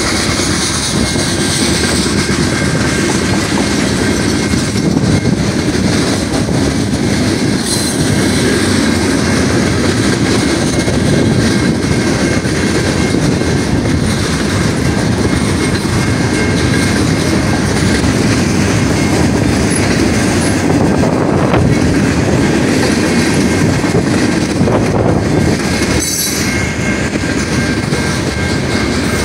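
A freight train of gondolas, boxcars and covered hoppers rolls steadily past: a continuous rumble of wheels clacking over rail joints, with a faint, steady, high wheel squeal.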